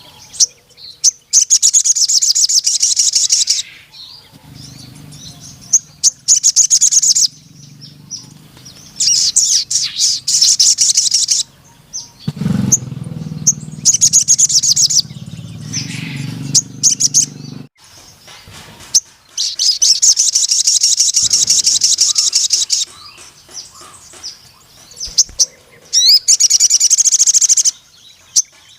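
Sogon (crimson sunbird) singing loudly in about six long bursts of fast, high, shrill trilling, with short pauses between. A low hum sounds under the song twice.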